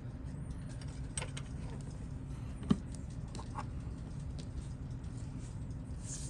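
Small, sparse clicks and taps of watchmaker's hand tools on a watch during teardown, with one sharper click about two and a half seconds in, over a steady low hum.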